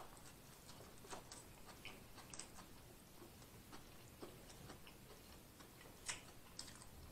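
Faint, scattered mouth clicks and smacks of someone chewing a bite of corned beef sub sandwich, a few slightly sharper ones here and there.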